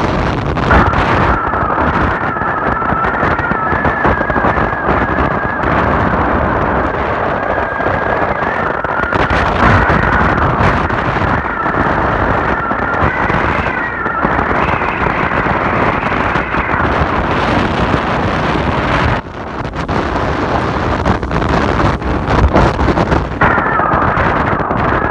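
Strong wind buffeting and crackling on the microphone on the deck of a moving ship, with a wavering high whistling tone running under it.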